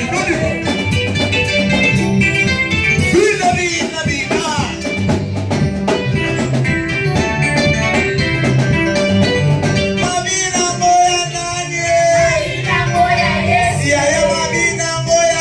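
Live church worship band playing an instrumental passage with guitar, bass, keyboard and drums, with a sung vocal line coming back in about ten seconds in.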